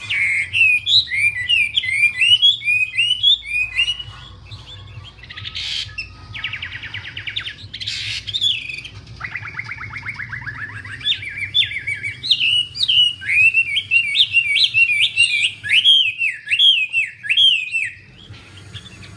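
A wambie songbird singing continuously and energetically: rapid whistled notes that leap up and down in pitch, broken by two buzzy rattling trills about six and ten seconds in, then a fast run of whistled phrases that eases off near the end. A faint low hum runs underneath.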